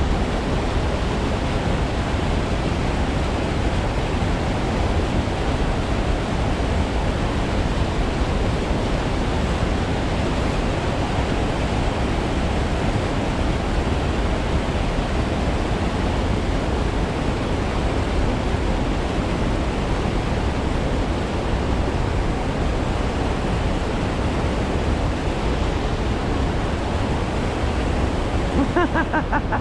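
Steady rushing noise of flowing creek water, with a short pitched sound near the end.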